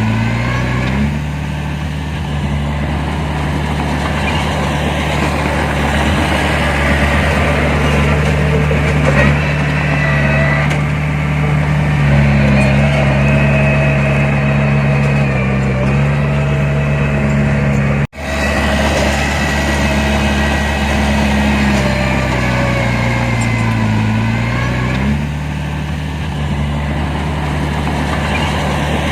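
Heavy diesel engine of earthmoving machinery running and working. Its pitch rises about a second in, holds steady under load, and drops back near the end. There is a brief break in the sound just past the middle.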